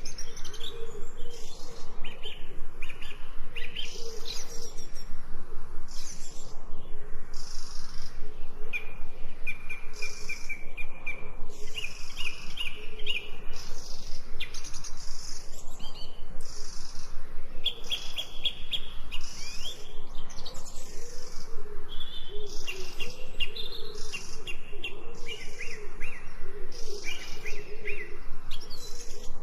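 Birds chirping and singing: a dense, continuous chorus of short high chirps and trills, with a lower wavering call underneath.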